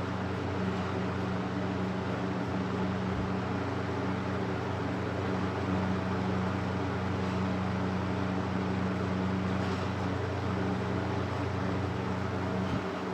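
Vintage SuperElectric 14-inch box fan running on its high setting: a steady motor hum with an even rush of moving air.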